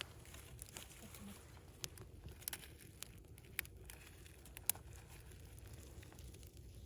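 Bonfire of dry wood crackling faintly, with a few scattered sharp pops over a low steady rumble.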